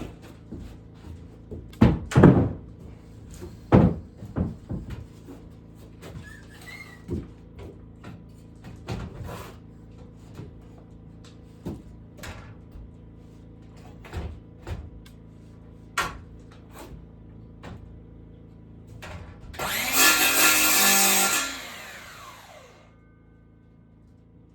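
Knocks and clatter of wood and tools being handled, loudest about two and four seconds in. Near the end a power tool runs for about two seconds, then its motor winds down.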